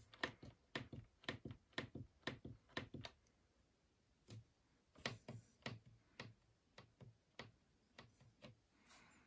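A run of sharp plastic-sounding clicks from a washing machine's controls being worked, about three or four a second at first, then after a short pause slower and more spaced out.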